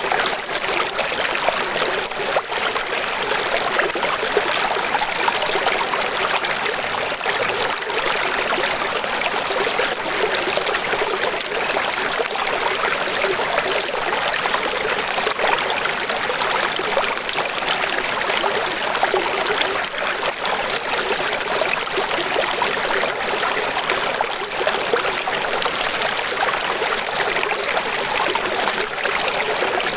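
Steady flowing water, an even rush and trickle with no pauses or distinct splashes.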